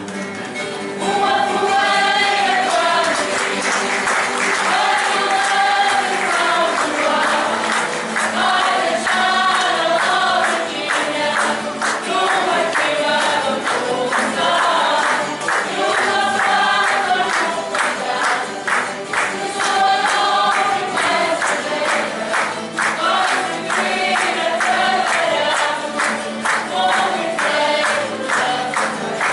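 Group of voices singing together to instrumental accompaniment with a steady beat: a sung passage of a Terceira carnival comic dance.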